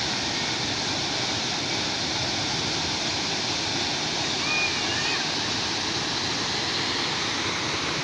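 Waterfall, water pouring and splashing in a steady, dense rush. A few faint short chirps come through about halfway in.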